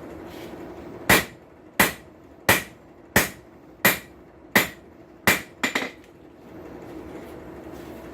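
Blacksmith's hammer striking hot steel on an anvil: a run of evenly paced blows, a little faster than one a second, each with a short ring, ending with two quick lighter taps. A steady low hum is audible before and after the blows.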